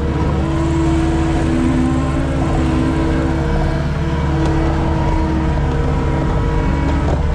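Skid steer engine running steadily, a constant loud drone with a few pitched tones that shift slightly in pitch.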